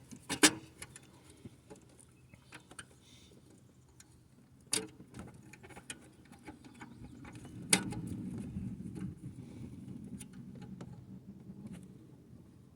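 Metal hand tools clicking and clinking against the engine, with three sharper knocks spread through and a low rustling rumble after the last knock.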